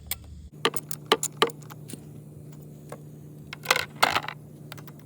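Irregular metallic clicks and clinks of a socket wrench and ratchet working on the carburetor mount bolts of a lawn mower engine, with a small cluster of clinks near the end, over a steady low hum.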